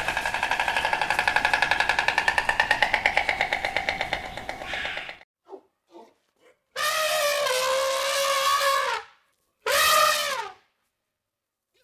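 White stork clattering its bill in a rapid rattle for about five seconds. Then an elephant trumpets twice, one long call and a shorter one.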